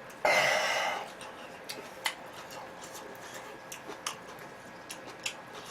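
Close-miked mukbang eating: a loud, noisy mouthful sound about a quarter-second in that lasts under a second, then scattered sharp chewing and mouth clicks.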